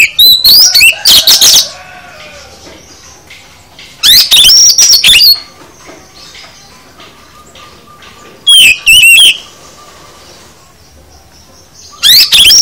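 Oriental magpie-robin (kacer) singing loud bursts of fast, varied whistled phrases, one about every four seconds, each a second or so long.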